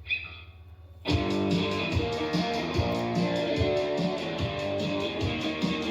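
Live electric guitar music starts about a second in with a steady beat, the opening of a rock song. Before it there is a brief quieter moment with a short high tone.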